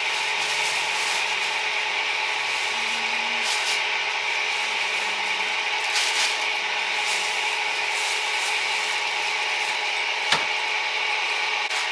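Steady hiss from a charcoal chicken-grilling stall, with one sharp click about ten seconds in.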